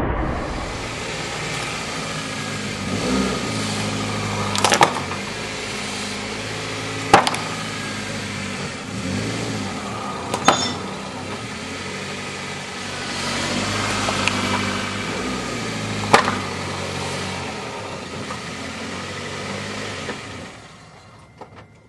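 Car engine running at low speed as the car rolls over a plastic hands-free phone headset, with four sharp cracks as it is crushed under the tyres.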